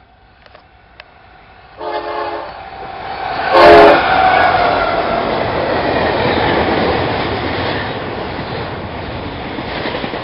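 A diesel freight locomotive's horn sounds two short blasts, the second louder, as it comes up. Then the locomotive and a double-stack container train roll steadily past close by, with a dense rumble and rattle of wheels on the rails.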